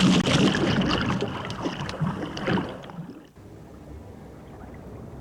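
Water splashing and churning loudly. About three seconds in it drops away to a low hiss.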